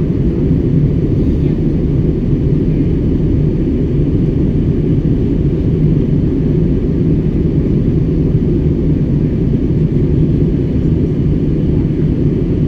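Steady low rumble of an airliner's cabin in flight, the engines and rushing air heard from inside, unchanging throughout.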